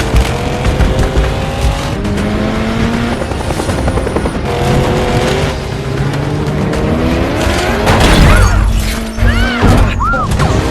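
Movie car-chase sound mix: car engines revving and rising in pitch, with tires squealing and a few hard impacts near the end, over a film score.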